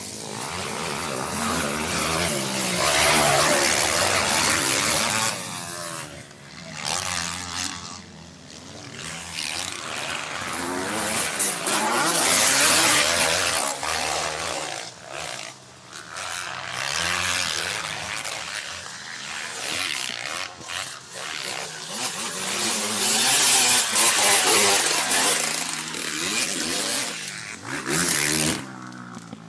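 Motocross motorcycles racing past, their engines revving hard with the pitch rising and falling through the gears. The sound swells loud several times as bikes come close and fades between passes.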